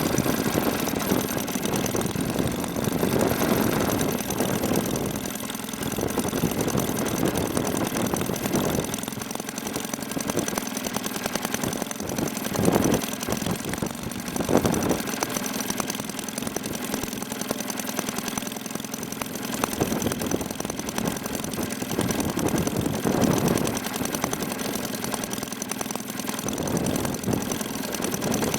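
Maytag Model 72D twin-cylinder two-stroke washing-machine engine running steadily on a carburetor, with a couple of brief louder surges about halfway through.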